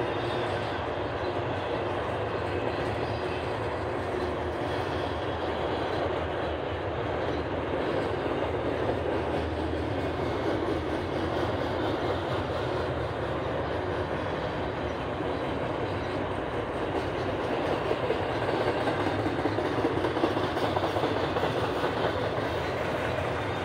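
Doublestack intermodal freight train's well cars rolling past, a steady wheel-on-rail noise that grows a little louder near the end.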